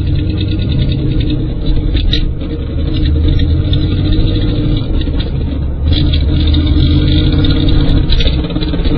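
Pontiac Trans Am on the move with a loud, steady low rumble that dips briefly about two seconds in and again near six seconds. The cause is the transmission-to-differential support, dropped after a mounting bolt came out, rubbing on the driveshaft.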